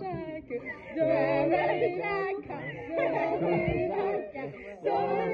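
Several people's voices at once: a group singing together without instruments, with talk mixed in.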